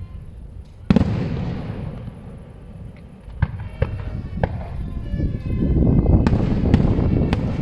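Aerial fireworks going off: one loud shell burst about a second in, trailing off in a long rumbling echo, then single sharp bangs a few seconds in, building to a denser run of bangs and rumbling near the end.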